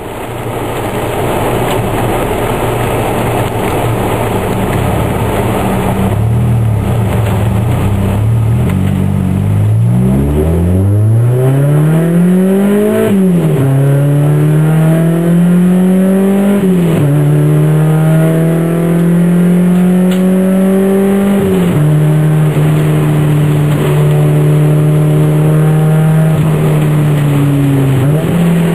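Car engine heard from inside the cabin over the hiss of tyres on a very wet road. The revs sit low at first, then from about ten seconds in climb sharply. They fall back suddenly three times and then hold fairly steady, with a brief dip near the end.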